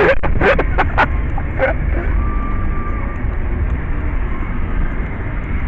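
Steady low road and engine rumble inside a moving car's cabin, with a brief steady tone about two seconds in.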